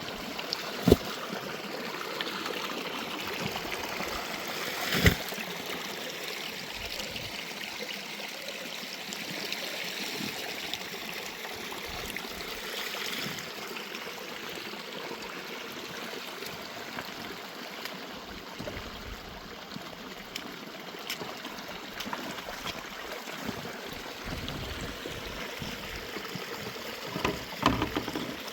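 Running water of a swollen mountain stream, a steady rushing flow. Two sharp knocks about a second and five seconds in, and a few more near the end.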